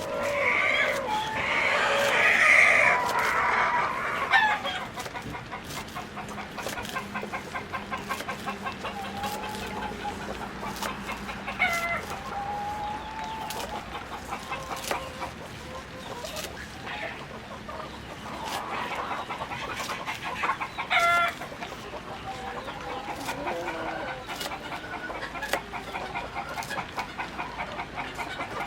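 Chickens clucking and calling, with a loud, drawn-out call in the first few seconds and shorter calls later, over a scatter of short clicks.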